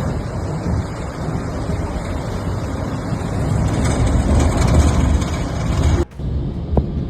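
Swollen Vispa river in flood, rushing floodwater making a continuous heavy low rumble. It breaks off abruptly about six seconds in, then continues.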